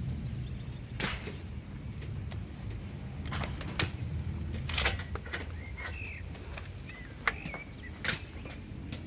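A handful of sharp, irregular clicks and knocks, the loudest about four and five seconds in, over a steady low rumble, with small birds chirping.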